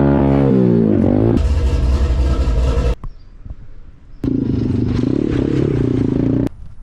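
SSR 125cc dirt bike's single-cylinder four-stroke engine in a string of abruptly cut riding clips. The revs drop and climb again, then give way to a loud rushing noise, and after a sudden break about three seconds in the engine runs at a steady rev.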